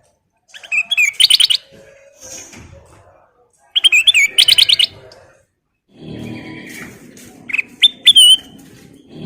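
Kutilang emas (a bulbul) singing: two short bursts of rapid, repeated bright whistled notes, then a few single sharp calls near the end.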